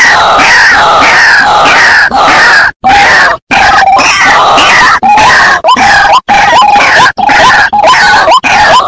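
White-breasted waterhen calls played as a loud bird-lure recording. Dense, overlapping repeated calls turn in the second half into a fast run of short rising notes, several a second, with two brief drop-outs about three seconds in.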